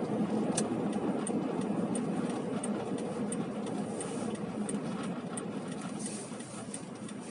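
Car interior noise while driving, with a turn-signal indicator ticking steadily about every two-thirds of a second.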